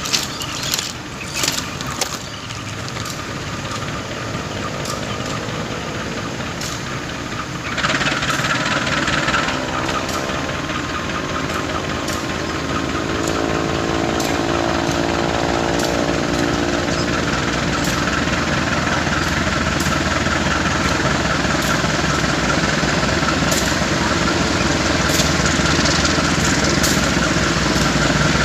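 A train running through the station. An engine note shifts in pitch as it goes by, a sudden hiss starts about eight seconds in, and a steady rolling noise grows louder toward the end, with clicks of wheels over rail joints.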